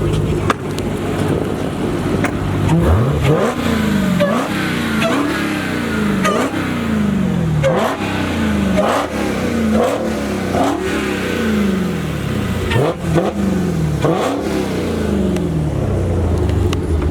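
Performance car engine revved over and over: the pitch jumps up sharply, then sags back, about once a second, over a steady engine drone.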